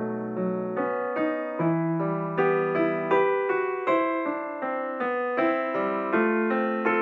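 Background piano music: a soft, slow melody of struck notes over held chords.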